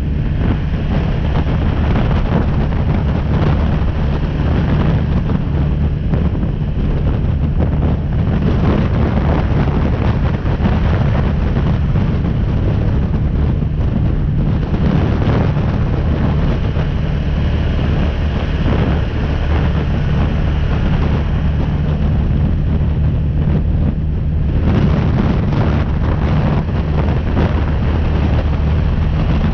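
BMW G310R's single-cylinder engine running steadily under way, mixed with heavy wind noise on the microphone. The engine note and wind shift slightly a few times as the speed changes.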